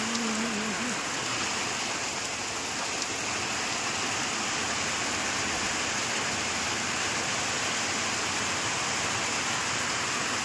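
Torrential rain falling steadily on wet ground and puddles, a dense even hiss.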